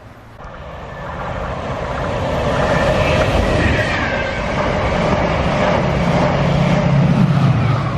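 A fast Chiltern Railways passenger train running through the station at speed without stopping. Its noise swells over the first two seconds, stays loud, and eases slightly near the end.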